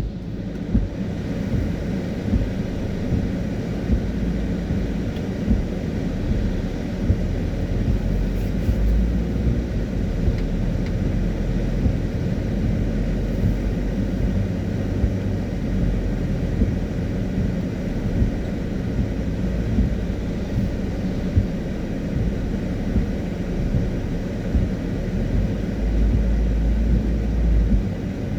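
Car driving on a wet road: a steady low rumble of tyres and engine, with small knocks here and there.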